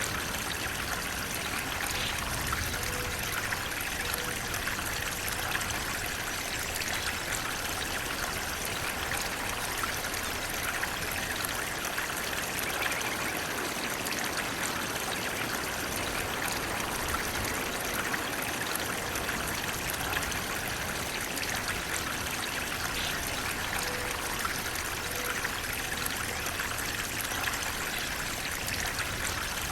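Water flowing steadily, an even, unbroken rush.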